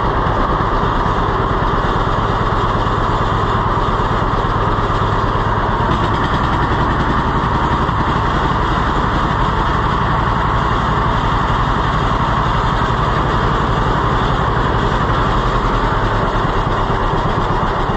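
John Deere B's two-cylinder engine running steadily just after a restart on its freshly rebuilt carburettor, with an even, rapid firing beat.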